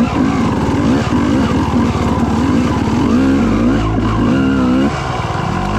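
Dirt bike engine revving up and down through the gears while riding, easing off to a lower steady note about three seconds in and picking up again shortly after.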